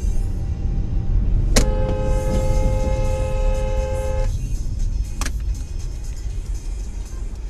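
Low rumble of a car on the road with a car horn blaring one steady note for about two and a half seconds, starting about a second and a half in. A sharp click comes about a second after the horn stops.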